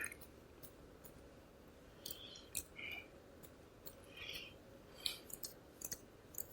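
Near silence with faint scattered mouth clicks and soft breath noises close to a microphone during a pause in speech.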